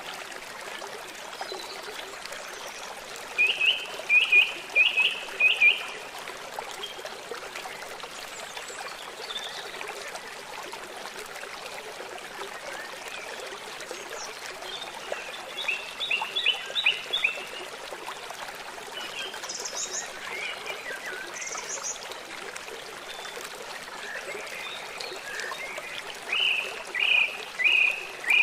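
Forest birdsong over a steady running stream: a bird sings a phrase of quick, short falling notes three times, about eleven seconds apart, with a few fainter high calls in between.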